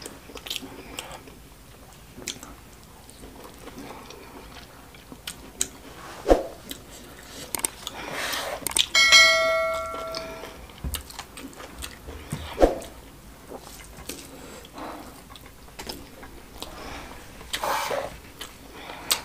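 Close-up eating sounds: chewing, lip smacks and small wet clicks from a mouthful of rice and stew. About nine seconds in, a short electronic bell chime rings for about a second.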